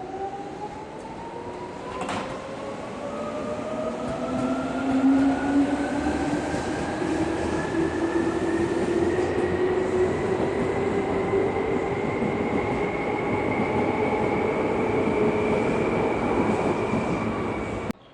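Electric commuter train pulling away from a station: the motor and gear whine climbs steadily in pitch as it accelerates, with a single sharp click about two seconds in. The sound cuts off suddenly near the end.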